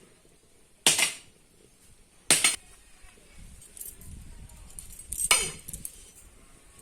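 Metal kitchen utensils and containers clinking against a karahi: three sharp clinks, about a second in, at about two and a half seconds and near five seconds.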